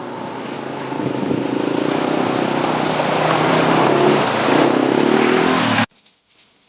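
Motorcycle engine running under way with wind and road noise, getting louder about a second in and again around three seconds, then cutting off abruptly near the end.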